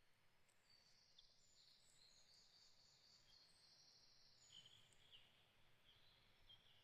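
Faint, distant songbirds: a high trilling song for the first few seconds, then short chirps, over a quiet background hiss.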